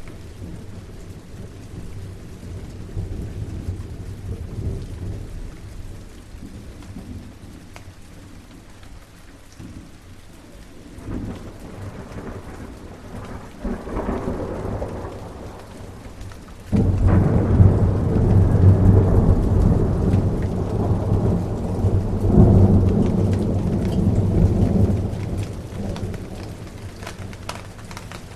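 Steady rain with rolling thunder. The thunder rumbles low through the first half, builds a little past ten seconds in, then breaks in sharply and loud at about seventeen seconds and rolls on for several seconds before fading, leaving the rain.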